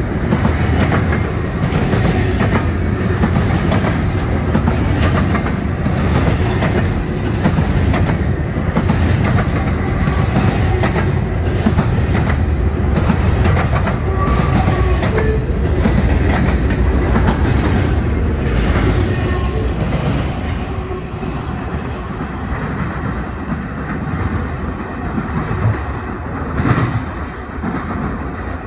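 Freight cars of a long train rolling past close by, a heavy rumble with rapid wheel clicks over the rail joints. About two-thirds of the way through, the sound drops and turns duller as the end of the train moves away.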